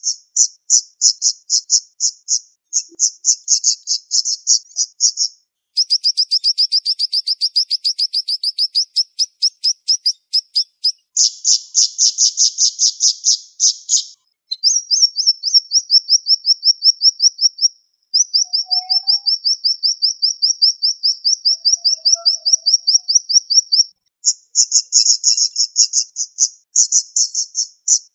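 Siri-siri songbird singing fast, tightly packed high trills: long runs of rapidly repeated notes, several seconds each, broken by brief pauses.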